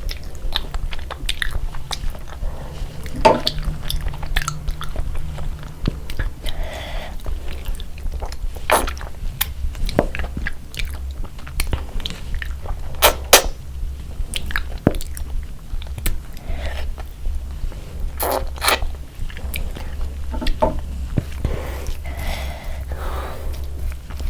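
Close-miked chewing and biting of a person eating, with many sharp, irregular crunches of crisp food, over a steady low hum.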